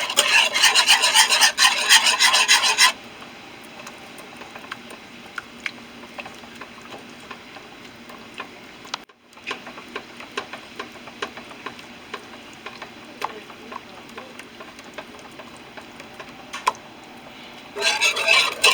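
A sauce being mixed briskly in a bowl: a fast, rhythmic scraping for about three seconds, then lighter clicks and scrapes, and another brisk burst of scraping near the end.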